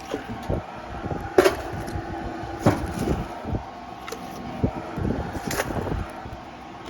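A few sharp metal knocks and clanks, with quieter handling noise between them, as an old wood-burning stove is opened and tended.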